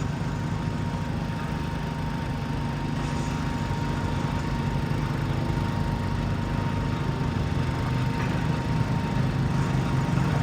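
John Deere 325 garden tractor's engine running steadily while pulling the sled, with a slight rise in level toward the end. A thin steady high tone runs along with it.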